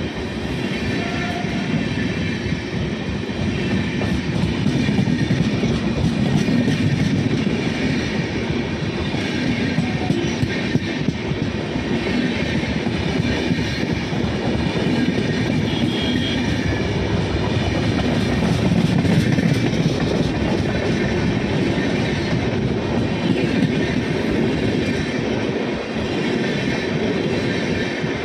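Train running past on the rails: a steady rumble with a fine rattle of wheels and cars, holding at an even level.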